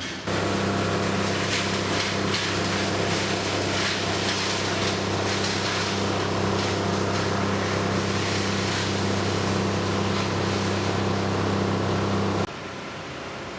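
A loud, steady hum with a rushing noise over it, like a running engine or machine. It starts abruptly and cuts off suddenly near the end.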